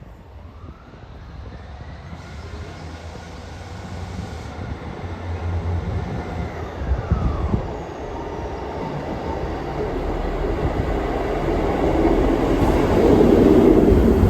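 Train approaching along the platform, growing steadily louder, with a whine that falls in pitch over the first half.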